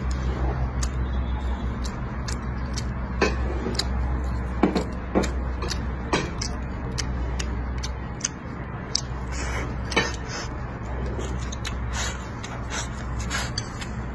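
Close-miked chewing and mouth sounds of a person eating with chopsticks, with a few sharp clicks standing out over a steady low hum.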